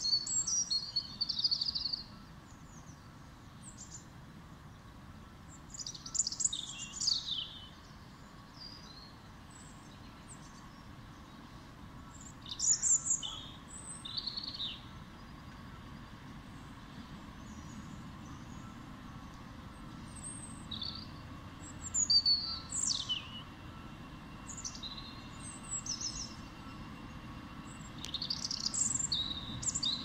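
A songbird singing short, high, quick phrases every few seconds, over a low steady background rumble.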